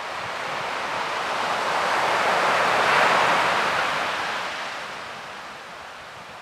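Ocean surf: a single wave swells to its loudest about three seconds in, then washes back and fades near the end.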